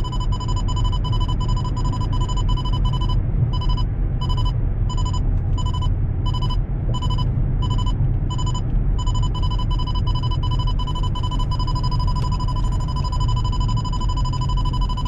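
Radar detector alarm sounding a buzzy electronic tone that pulses in quick beeps through roughly the first two-thirds, then holds as one continuous tone. Under it, the car's engine and road noise rumble steadily in the cabin.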